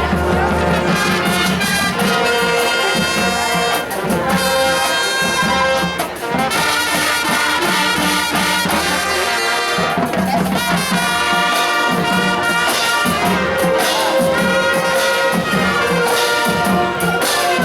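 High school marching band playing, led by trumpets and trombones: loud, continuous brass music with percussion hits.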